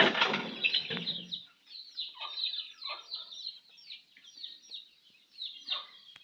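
Baby chicks peeping continuously in short, high, falling chirps, with hens clucking: a loud, fuller call over the first second and a half, then a few softer clucks.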